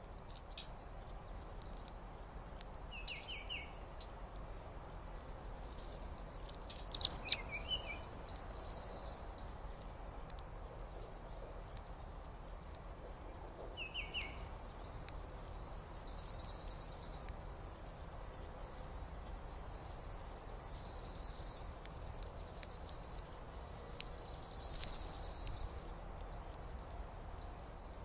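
Small birds chirping and calling now and then over steady outdoor background noise, with one sharp, loud call about seven seconds in.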